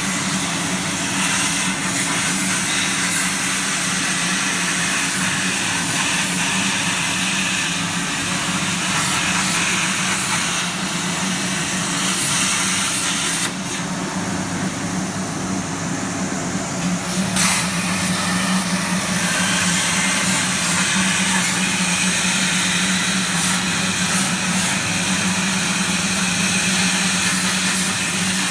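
CNC plasma cutter cutting sheet metal for ductwork: a steady hiss over a low hum, the hiss easing for a few seconds about halfway through.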